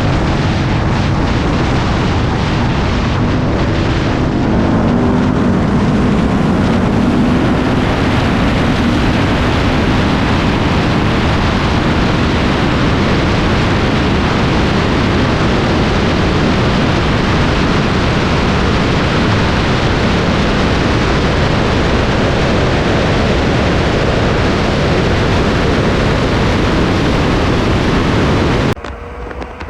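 Steady, loud rush of wind and road noise from a car travelling at high speed, with an engine note faintly rising underneath early on. It cuts off suddenly near the end.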